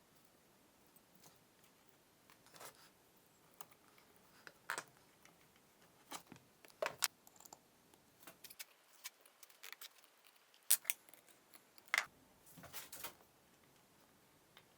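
Sparse, irregular light clicks and taps, like small hard objects being handled. The loudest come in the middle and near the end.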